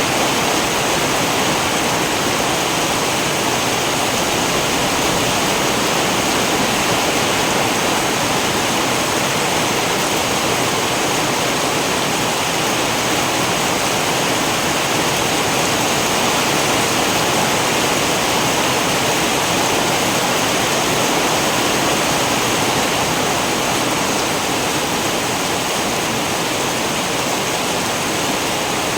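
Heavy rain falling steadily, a dense, even hiss of water with no distinct drops or thunder.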